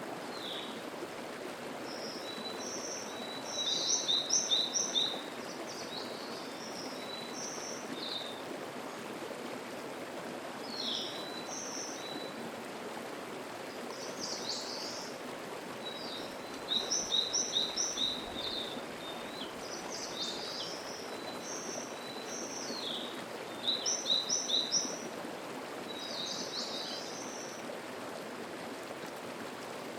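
Mountain stream flowing steadily over rocks, with small songbirds singing above it. A song phrase of quick repeated high notes comes three times, about 4 s, 17 s and 24 s in, with shorter calls scattered between.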